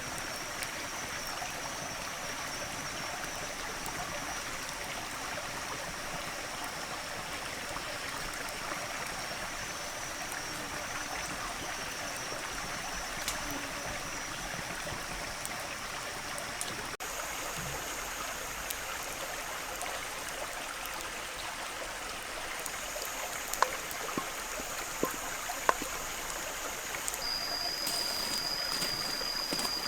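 Steady rushing, water-like noise, with a thin steady high-pitched tone over it that changes pitch partway through. A few sharp clicks come near the end.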